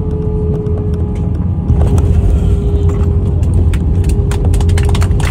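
Airliner cabin noise during landing: a steady low rumble with a thin engine whine that gets louder about two seconds in, then rattles and knocks through the cabin as the wheels run on the runway.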